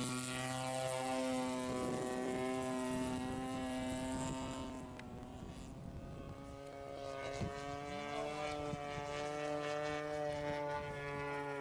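Engine of a radio-controlled model warbird airplane droning steadily in flight. It fades somewhat around halfway through, then grows louder again.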